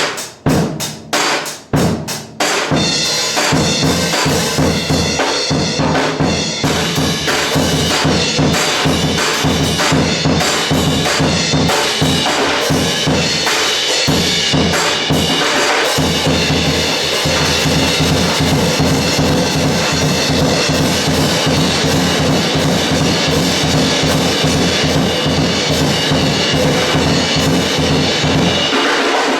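Big jazz band playing up-tempo swing: a few sharp, separate accents in the first couple of seconds, then saxophones, trumpets and trombones play loudly together over piano, bass, guitar and a driving drum kit.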